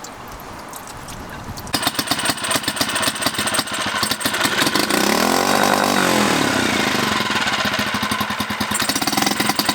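Small Yamaha outboard motor, just overhauled after sinking, starting about two seconds in and running, its revs rising and falling back once midway. It shows the motor runs again after being recovered from the water.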